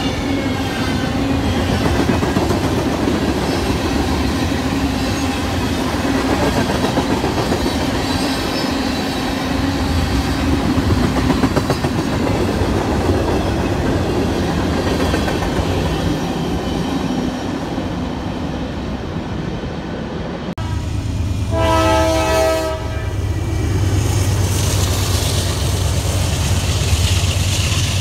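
Train rolling past on the rails, wheels clattering steadily with a steady hum. After an abrupt cut about two-thirds of the way in, a diesel locomotive's horn gives one short blast over a low engine rumble.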